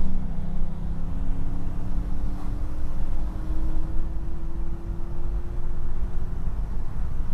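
2006 Jeep Commander's 5.7 HEMI V8 running through a custom true dual exhaust with an IMCO dual-in/dual-out performance muffler, heard from inside the cabin with the windows down. Its pitch drops suddenly right at the start, like a gear change, then climbs slowly as the Jeep pulls on, with a deep steady rumble underneath.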